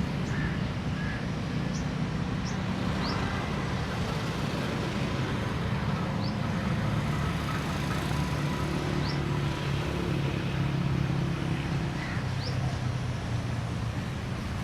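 Steady low rumble of road traffic, with a small bird's short, high, rising chirp repeating irregularly every one to three seconds.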